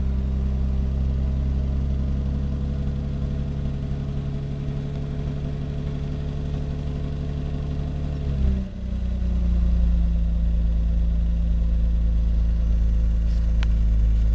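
BMW M50 2.5-litre straight-six in an E34 525i idling just after a cold start at −19 °C. About eight seconds in the idle speed drops a step, with a brief surge, then holds steady at the lower speed, the cold fast idle settling.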